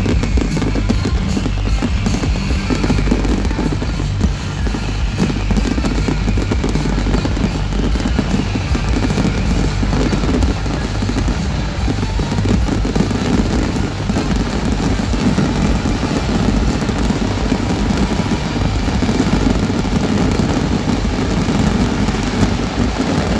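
Fireworks finale: many shells bursting at once in a dense, unbroken crackle and banging.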